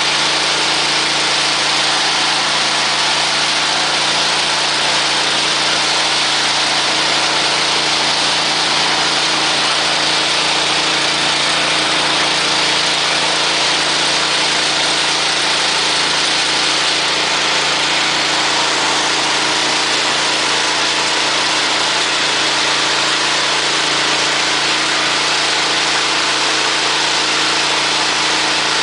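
Petrol engine driving a grain extruder, running steadily at a constant speed with an even mechanical hum that does not change.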